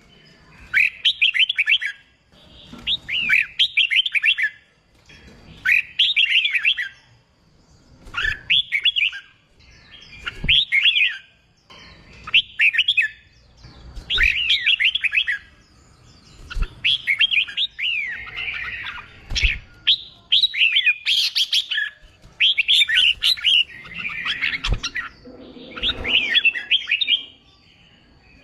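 Red-whiskered bulbul singing: short, fast, warbled phrases of about a second each, repeated roughly every two seconds.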